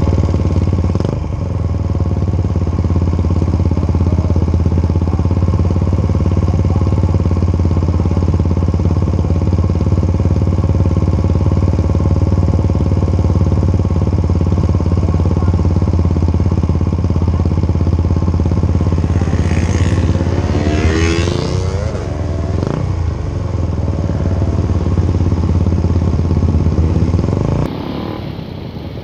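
Suzuki Satria FU 150's single-cylinder engine running loud and steady through a bored-out stock CKD exhaust silencer as the motorcycle is ridden. About twenty seconds in the note briefly dips and rises again, and it drops away near the end.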